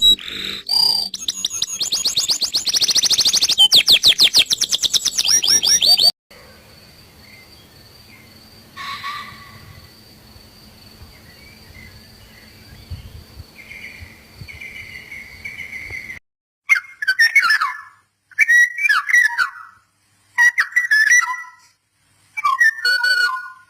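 Small birds chirping and whistling: a dense, rapid twitter for the first six seconds, softer scattered calls over a faint steady high tone through the middle, then four separate bursts of chattering calls near the end.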